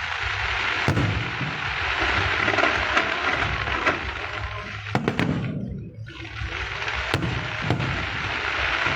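Fireworks going off: a dense, continuous hissing crackle with a few sharper bangs, easing briefly about six seconds in before picking up again.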